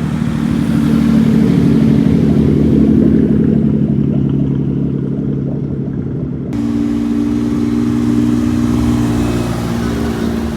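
Car engines running loudly with a steady note for about six seconds, then an abrupt switch to a different steady engine note.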